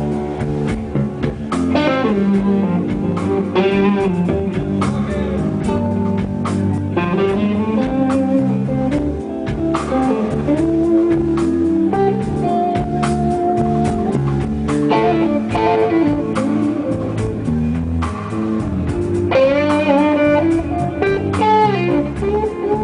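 Blues band playing live without vocals, with a guitar playing a lead line of held and bending notes over bass and drums.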